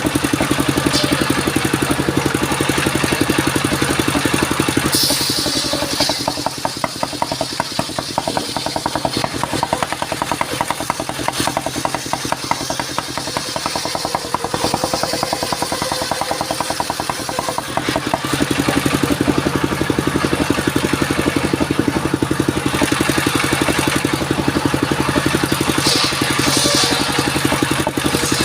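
Engine of a motorised circular-saw rig running steadily with an even firing rhythm; it gets a little quieter for a stretch in the middle, then comes back up.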